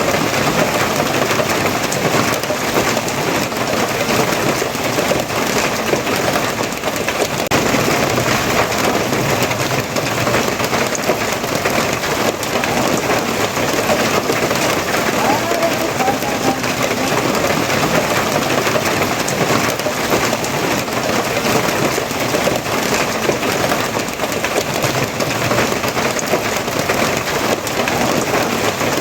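Steady, heavy rain falling, a dense even patter with no breaks or changes.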